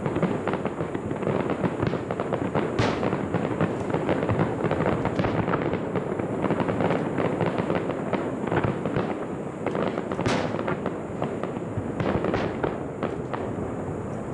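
Aerial fireworks display: a dense, continuous crackling of many shells bursting at once, with a few sharper, louder reports about three and ten seconds in.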